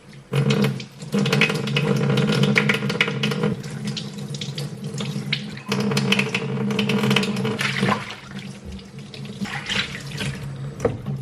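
Water running from a tap into a sink. The flow cuts off briefly a few times and turns weaker and more broken after about eight seconds.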